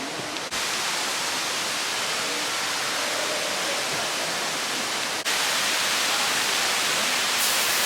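Steady hiss of water from the rainforest biome's indoor misting and rain system, spray and falling drips. It breaks off abruptly twice, about half a second and about five seconds in, and comes back a little louder each time.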